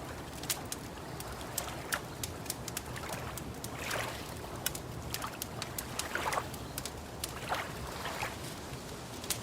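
Wood fire crackling with frequent sharp pops, over lake water lapping in soft splashes every second or two.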